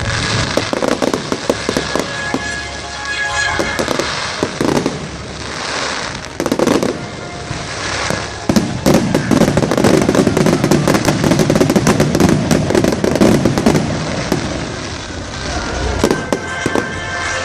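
Fireworks exploding in rapid succession: sharp bangs and crackling, busiest and loudest from about nine to fourteen seconds in.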